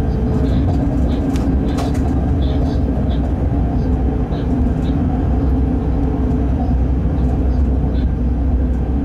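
Freight train running at speed, heard from inside the locomotive cab: a steady low rumble of wheels on rails and running gear, with a few faint short ticks above it.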